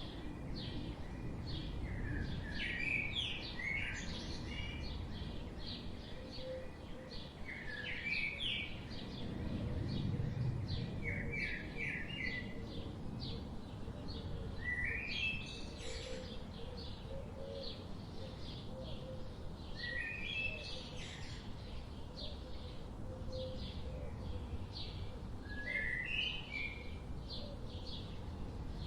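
Forest birdsong: one songbird repeats a short phrase every few seconds while fainter chirps from other birds run underneath, over a steady low background rumble.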